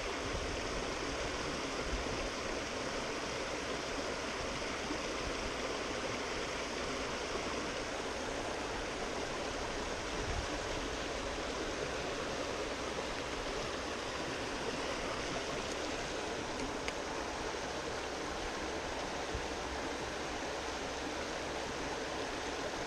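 Steady rushing of a mountain trout stream flowing over rocks, an even water noise.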